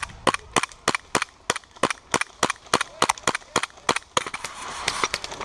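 Gas blowback airsoft gun firing a quick string of single shots, about four sharp cracks a second for roughly four seconds, then stopping.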